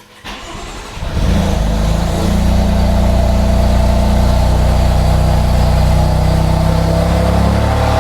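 Cold start of a 2016 BMW M3's S55 twin-turbo inline-six, breathing through catless downpipes and an Eisenmann axle-back exhaust. It is cranked briefly, catches about a second in with a jump in loudness, and settles into a steady idle.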